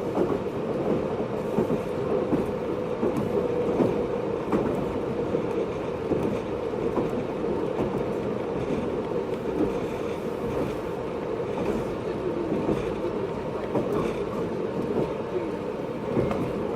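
Running noise inside a JR 583-series electric train's MoHaNe 582 motor car under way: a steady rumble of wheels on rail, with occasional light knocks from the track.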